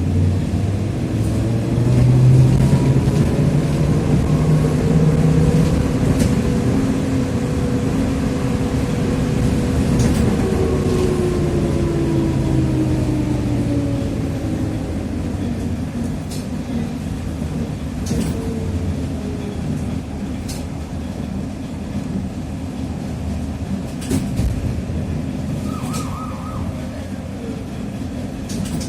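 Trolleybus drive whine, from the Ishimbay rear axle gears and DK-213A traction motor of a TrolZa-5275.05 Optima, with a steady rumble of running gear beneath it. The whine rises in pitch as the trolleybus accelerates, holds, then falls away as it slows from about ten seconds in. Several sharp clicks follow later on.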